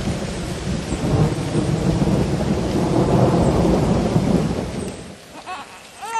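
Thunder rumbling over rain, dying away about five seconds in; near the end a newborn baby starts to cry in short wails.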